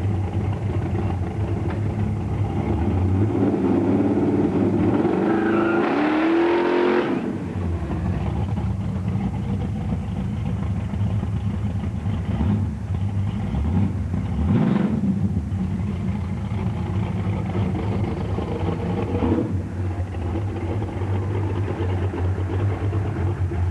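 1976 Pontiac Trans Am's V8 idling with a steady rumble. It is revved up about four seconds in, rising in pitch until it drops back sharply near seven seconds, and given two shorter blips of the throttle later.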